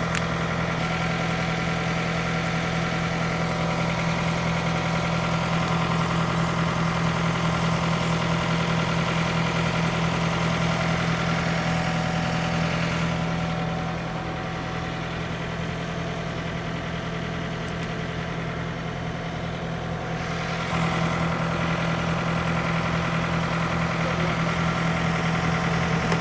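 Heavy truck's diesel engine idling steadily; it drops slightly in level about halfway through and comes back up near the end.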